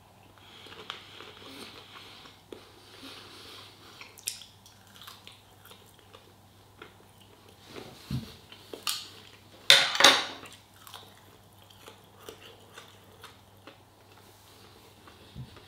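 A person chewing a thin-coated, crispy chicken bite, with scattered small crunches and clicks. The loudest is a sharp crunch or click about ten seconds in.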